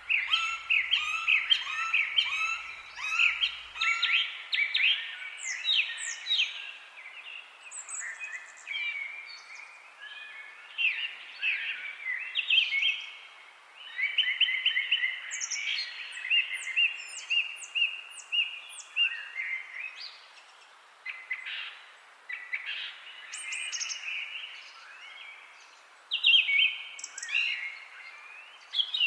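Songbirds chirping and singing, with many overlapping calls at different pitches: quick repeated chirps, short trills and sliding whistles, with no pause.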